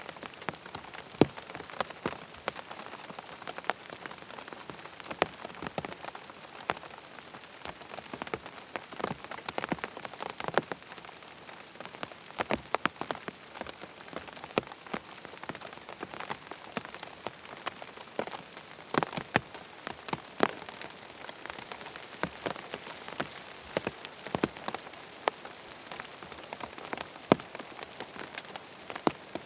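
Steady rain falling, with frequent sharp, irregular ticks on top of the even hiss.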